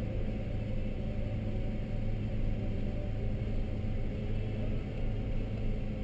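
Ford Fiesta's engine idling steadily, heard from inside the cabin as a low, even hum.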